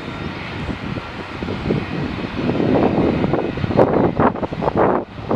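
Jet airliner engines running, a steady roar with a faint high whine, overlaid from about halfway through by gusts of wind buffeting the microphone.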